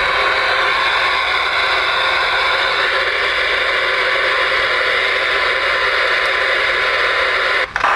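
Ranger RCI-2970N2 ten-meter radio receiving an empty channel: a steady hiss of static from its speaker, which cuts out briefly near the end.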